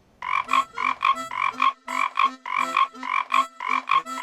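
Frogs croaking in a steady rhythm, a double croak (a longer note then a short one) repeating about twice a second.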